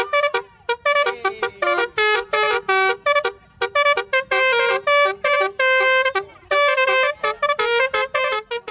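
Multi-tone telolet bus horn playing a quick tune of short, clipped notes that step up and down in pitch, with a few longer held notes partway through.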